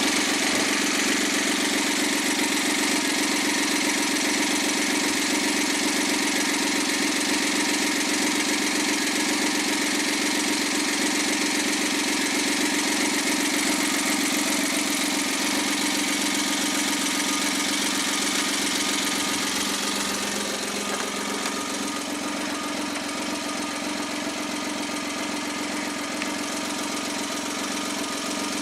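Overhauled Suzuki K6A 660 cc turbo three-cylinder engine idling steadily on a post-rebuild test run. The sound drops a little about twenty seconds in.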